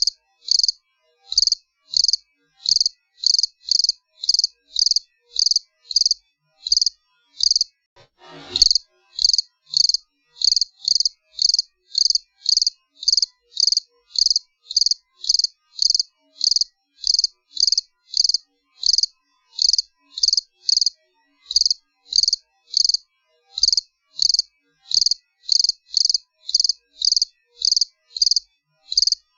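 A cricket chirping steadily in short, evenly spaced chirps, about two a second. A single quick tone sweeps downward about eight seconds in.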